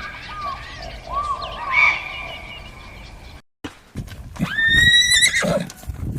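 About four seconds in, a horse whinnies: one long high call that rises, holds, then wavers and drops away. Before it, a different stretch of short, repeated chirping calls.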